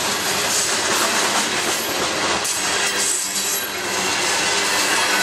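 Freight train of open-top coal cars rolling past close by at speed: the steady loud rumble and rattle of steel wheels on the rails.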